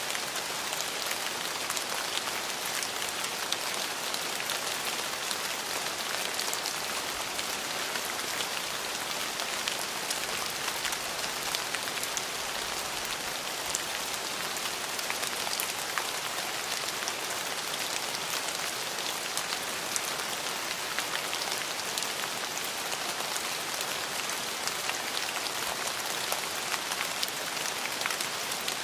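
Steady rain falling and pattering on a surface, with many individual drops ticking through it; no thunder.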